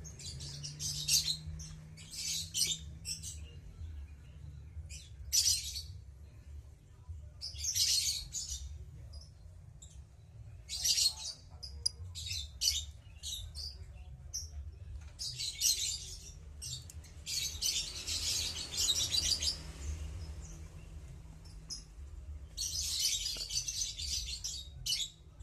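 Lovebirds chattering: repeated harsh, high chirps in short bursts, with a few longer runs of rapid chatter lasting a second or two.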